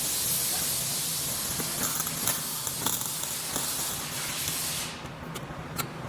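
A steady jet of spray or air hissing, which cuts off about five seconds in, with a few light ticks along the way.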